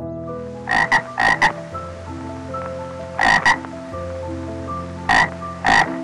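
Tree frog calling: about seven short, buzzy croaks in three clusters, several of them in quick pairs, with a second or two between clusters.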